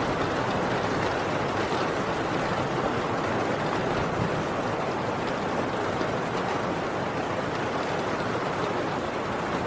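Heavy rain falling steadily on a tin roof: a dense, even hiss with faint ticks of single drops striking the metal.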